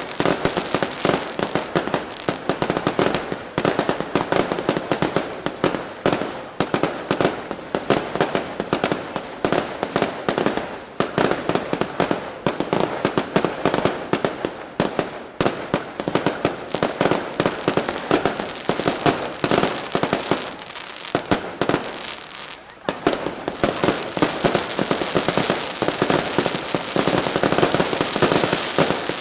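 Daylight fireworks: a dense barrage of firecrackers and bangs going off in rapid, nearly continuous succession. It eases off briefly about three-quarters of the way through, then picks up again.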